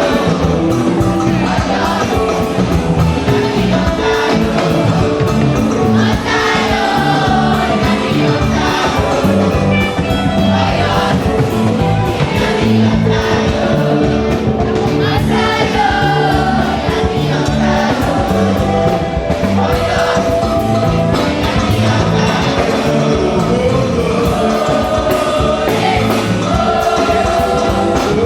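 Choir singing a gospel song over instrumental backing with a steady bass rhythm.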